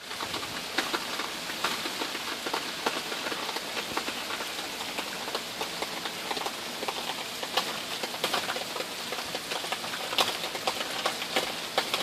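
Steady rain from a hurricane's rain band falling on pavement and plants: an even hiss with frequent sharp drop ticks close by.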